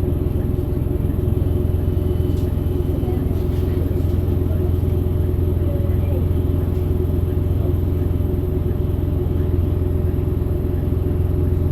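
Scania DC9 five-cylinder diesel engine of a 2008 Scania K270UB bus running steadily, a low drone with no change in pitch or level.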